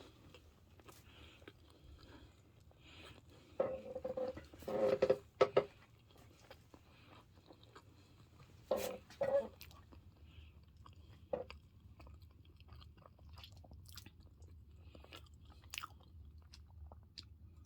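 A person chewing and biting into home-dried banana pieces close to the microphone, with a few louder bites or mouth sounds around 4, 5 and 9 seconds in.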